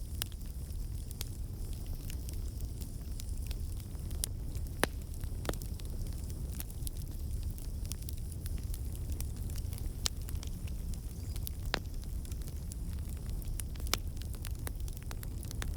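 Campfire burning: a steady low rumble of flames with sharp, irregular pops and crackles from the burning wood, a few louder snaps among them.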